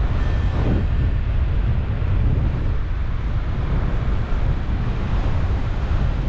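Airflow buffeting a camera microphone in flight under a paraglider: a steady, loud, low rushing rumble of wind.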